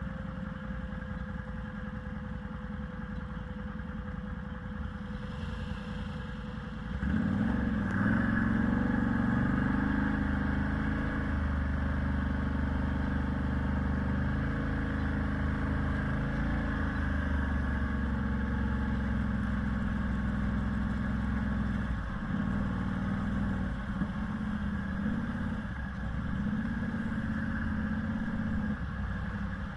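An engine running steadily, getting louder about seven seconds in, its pitch rising and falling now and then.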